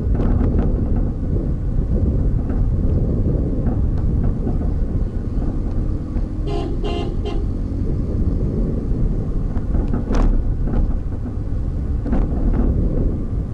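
Road traffic: a steady low rumble of engines and tyres, with a vehicle horn tooting a few short times about six and a half seconds in.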